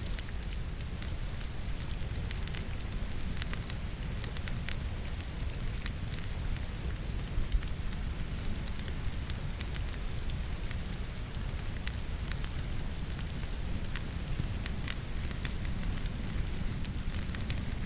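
Wood logs burning in a fireplace, crackling with scattered sharp pops, one louder pop about halfway through, over a steady hiss of rain.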